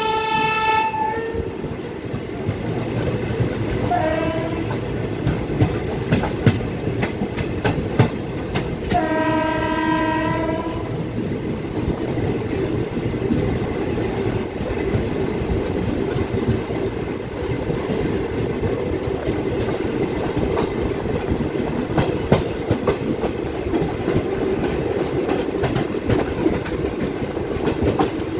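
Steady running noise of a passenger train overtaking a container freight train on the next track, heard from the side of the moving coach, with a constant patter of wheel clicks over the rail joints. A train horn sounds right at the start, briefly again about four seconds in, and once more for nearly two seconds about nine seconds in.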